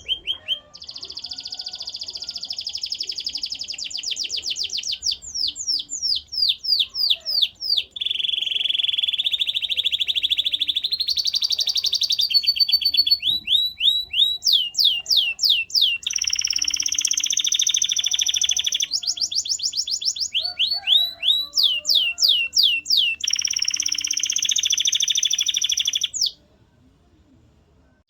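Male canary singing: high, fast trills and runs of repeated sweeping notes, switching to a new phrase every second or two. The song stops abruptly near the end.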